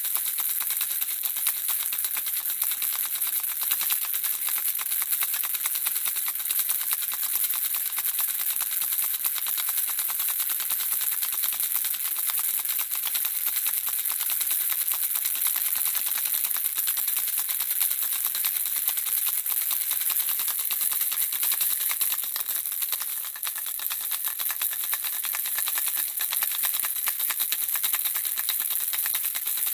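Handheld baby rattle shaken without pause, the small pieces inside clicking and rattling in a dense, fast patter that eases briefly about two-thirds of the way through.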